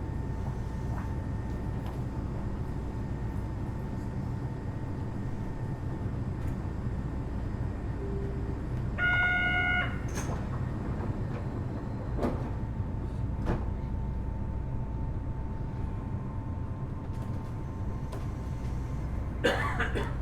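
Kitakyushu Monorail Series 1000 car standing at a station, its onboard equipment giving a steady low hum. About nine seconds in, a single steady buzzer tone sounds for about a second, with a few knocks scattered through, and a louder clatter comes near the end.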